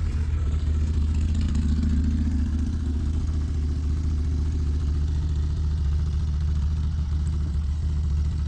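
Steady low rumble of a running motor, even in level throughout.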